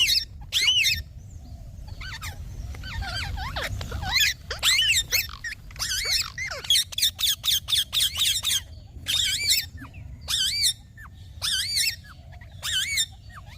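Ringneck parakeet giving short, shrill, wavering calls in quick runs of several at a time, with pauses between the runs, over a faint low rumble.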